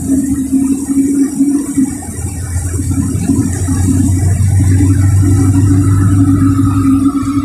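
LiAZ 4292 city bus's diesel engine running while under way, heard from inside the passenger cabin; a whine comes in about five seconds in and climbs slightly.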